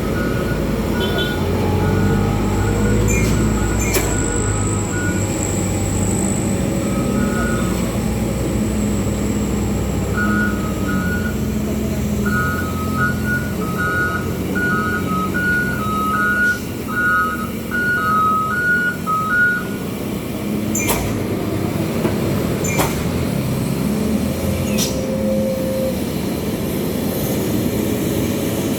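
Heavy Hino truck loaded with coal, its diesel engine running steadily as it descends. A repeating two-note electronic beeping comes and goes, most continuously from about a third of the way in to about two-thirds, and a few brief sharp sounds break through around the middle and later.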